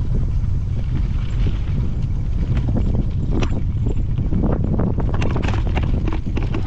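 Strong wind buffeting the microphone in a steady low rumble, with a scatter of short clicks and crunches over it that come thicker in the second half.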